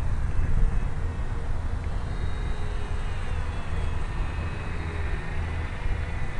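Wind buffeting the microphone in a steady low rumble. From about two seconds in, the faint whine of an ultra-micro RC airplane's electric motor rises and falls in pitch.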